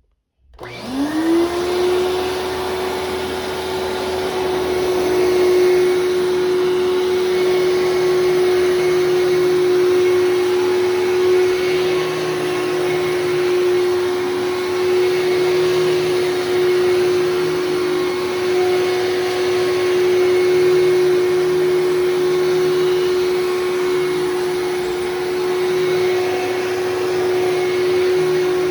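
1996 Fantom Thunder vacuum cleaner switched on: the motor spins up in about a second to a steady high whine, then runs steadily while vacuuming.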